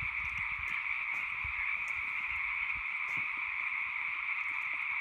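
Dense chorus of a great many frogs calling at once, a steady unbroken din with no gaps. Faint low rumbles lie underneath.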